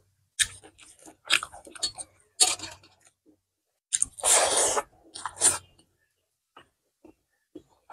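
Close-miked mouth sounds of a person eating rice and pork intestines by hand: wet chewing and short smacking clicks, with one longer breathy rush about four seconds in as a handful goes into the mouth.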